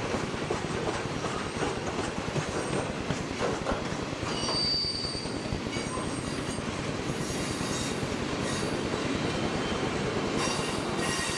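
Southern Pacific train's cars rolling past with steady rumbling and grinding of steel wheels on rail. High-pitched wheel squeals come through, the clearest about four to five seconds in and more near the end.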